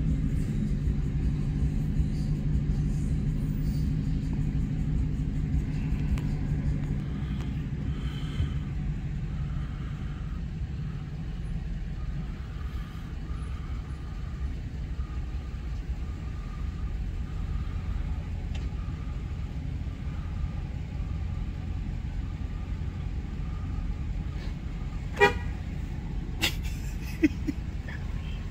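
Deep Hemi V8 exhaust rumble from the cars driving together, with a steadier engine note in the first several seconds that then settles into a low drone. Near the end there is a short car horn toot, followed by a sharp click.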